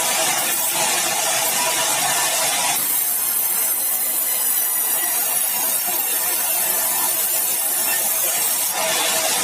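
Sawmill saw running through meranti batu timber, a steady loud noise whose tone shifts about three seconds in and shifts back near the end.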